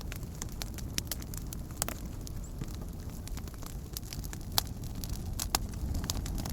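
Wood campfire burning, with a steady low rumble and irregular crackles and pops, the sharpest about four and a half and five and a half seconds in.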